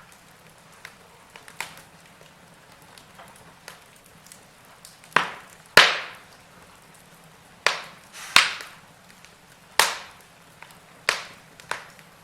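Wood fire burning in a fireplace: a soft steady hiss with small crackles and a run of loud sharp pops from the logs in the second half.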